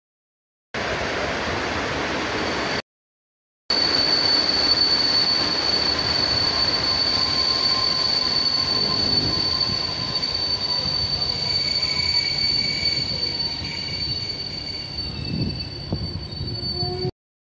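Passenger train coaches rolling slowly past, with a steady high-pitched wheel squeal over the rumble of the wheels. The sound drops out twice in the first four seconds and cuts off just before the end.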